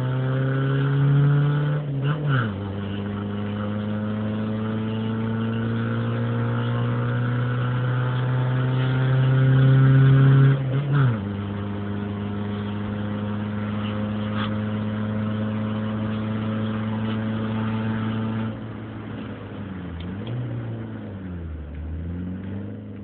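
Car engine with an open exhaust pulling uphill under throttle. Its pitch climbs and drops with a gear change about two seconds in, climbs again to its loudest and drops with another shift around eleven seconds, then holds steady. Near the end it eases off, lower and wavering.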